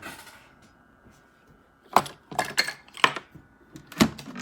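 A brief rustle, then a run of about six sharp clicks and knocks over roughly two and a half seconds, as of small hard objects being handled.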